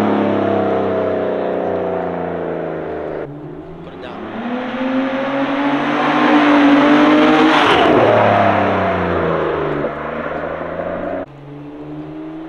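2018 Nissan Maxima's 3.5-litre V6 breathing through a Stillen dry-flow intake, in drive-bys cut together. The engine note drops away as the car drives off, then rises as it approaches, is loudest as it passes about eight seconds in, and falls again. The sound is broken by abrupt cuts about three and eleven seconds in.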